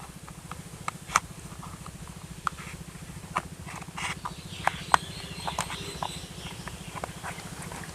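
Plastic toy parts clicking and tapping as wheels are pushed onto a toy truck's axles: scattered short clicks, the loudest just over a second in and near the five-second mark, over a steady low hum.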